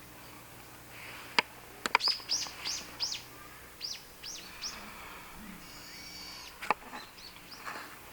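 A bird chirping a run of about seven short, quickly falling high notes. A few sharp clicks, the loudest sounds, come before the chirps and again near the end.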